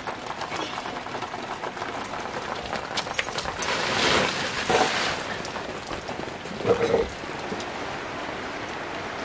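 Steady rain falling, with many small drip and drop clicks; the noise swells louder about four seconds in, and there is a short louder burst near seven seconds.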